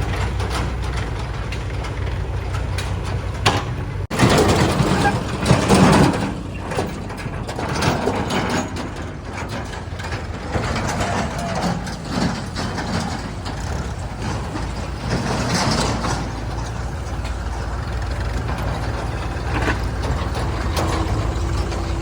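Heavy diesel engines of a backhoe loader and tractor running steadily. About four seconds in there is an abrupt break, followed by a louder, rougher stretch lasting a couple of seconds.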